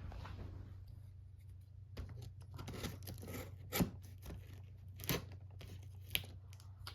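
Cardboard fan box and its packing tape being handled: irregular tearing and scraping, with a few sharp knocks about four, five and six seconds in.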